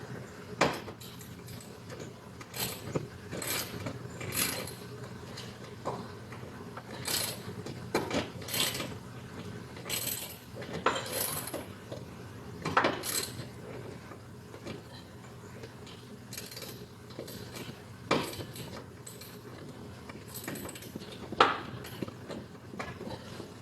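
Hand tools working screws: irregular clicks, taps and short scrapes, one every second or two.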